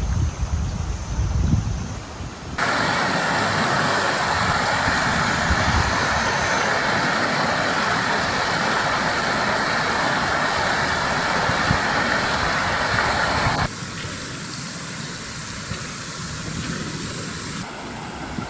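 Rushing river water, a loud steady rush that cuts in sharply about three seconds in and cuts out sharply near fourteen seconds, leaving a softer water sound. Before it, a low rumble of wind on the microphone.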